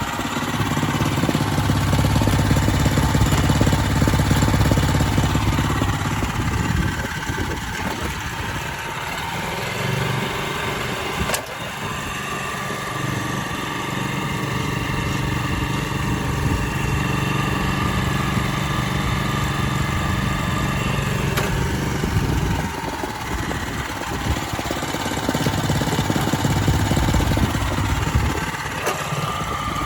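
The 6.2 hp gasoline engine of a Kubota TA700 Vegemaster walk-behind cultivator running, its speed and load changing several times. There is a single sharp click near the middle.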